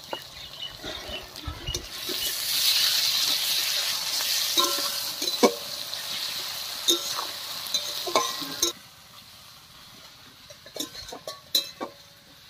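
Minced garlic and sliced onions sizzling in hot oil in a metal kadai, stirred with a metal spatula that clinks and scrapes against the pan. The sizzle swells about two seconds in and falls away about two-thirds of the way through, leaving a few light clinks of the spatula.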